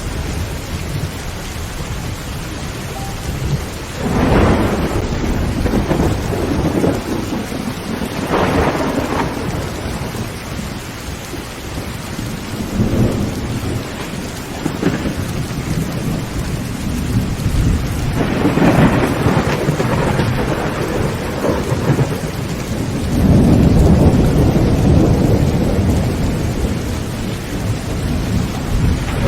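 Heavy rain pouring on a tin roof, with rolling thunder rumbling through it. The thunder swells several times, and the longest, loudest rumble comes near the end.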